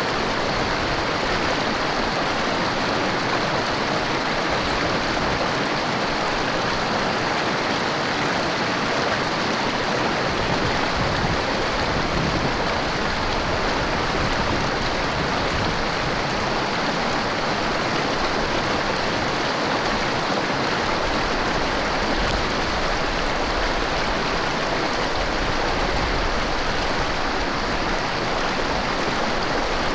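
Mountain river rushing over rocks: a steady, even roar of running water.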